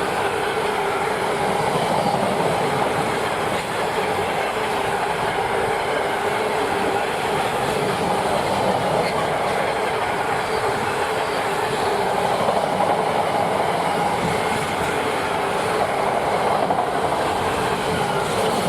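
Freight train rolling past on the main line: the steady, loud noise of wagon wheels running on the rails, with a faint even whine running through it.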